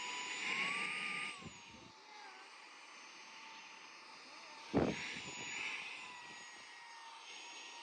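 Cordless mini handheld vacuum (SAKER 3-in-1, brushless motor) running with a steady high whine and air rushing through the nozzle. Its pitch rises for a moment about a second in, then settles back. There is a single sharp knock just under five seconds in.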